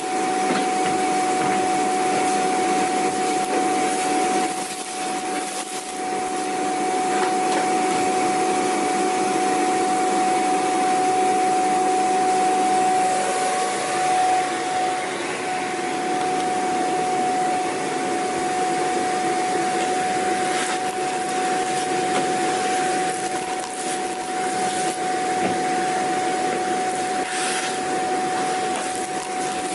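Vacuum cleaner running steadily: a constant motor whine over a rushing of air, with the level dipping briefly twice.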